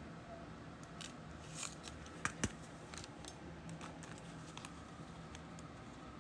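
Faint, scattered clicks and light scrapes of trading cards and their packaging being handled, with two sharper clicks about two and a half seconds in.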